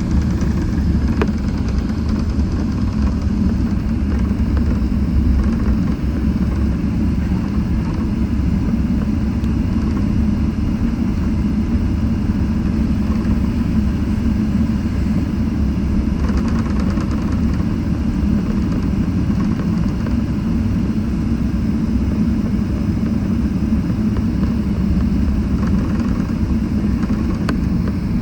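Boeing 777-300ER's GE90 engines running at low power on the ground: a steady, unbroken low rumble.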